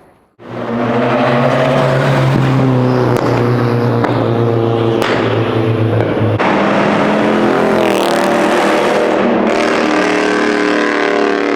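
Loud car engine running at a held, steady speed, starting abruptly about half a second in; a deep low note in it drops out around six seconds in.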